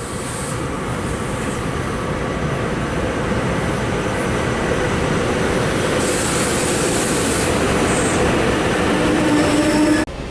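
SEPTA Regional Rail electric train pulling into the platform, its running noise building steadily louder as it arrives, with a brief whine near the end.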